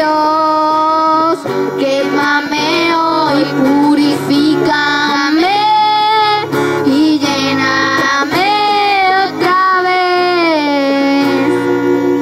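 Music: children and a woman singing a Spanish worship chorus over guitar accompaniment, drawing out long held notes.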